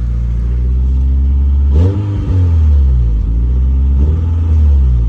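Honda Integra's four-cylinder engine idling and revved twice, the pitch rising and falling back each time. It is running with a header-to-exhaust joint just tightened, still leaking slightly at the top.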